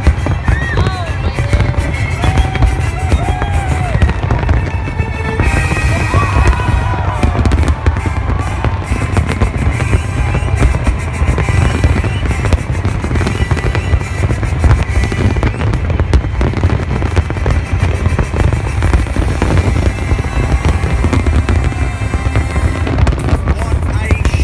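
Fireworks display in full barrage: continuous deep booms and dense crackling from many shells bursting at once.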